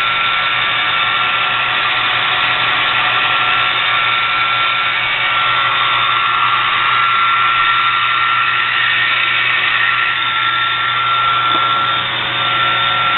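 Clausing-Harrison M300 13" x 40" metal lathe running under power, its spindle turning, a steady mechanical drone with a constant high whine.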